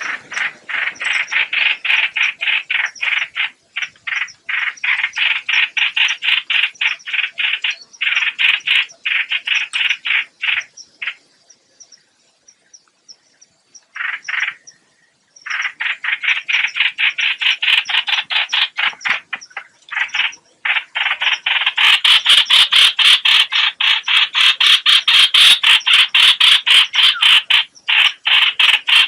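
Lure-call recording of the bird known in Vietnamese as 'hoạch hoạch': long series of rapid, harsh rasping notes, several a second, breaking off for a few seconds near the middle and coming back louder and denser later on. It is played to call birds in for trapping.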